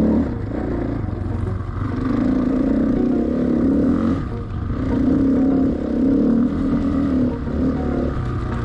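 Enduro motorcycle engine running, its note swelling and easing off in several surges.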